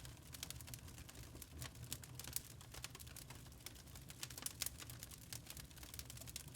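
Wood log fire crackling in a fireplace: rapid, irregular small clicks and pops over a low steady rumble.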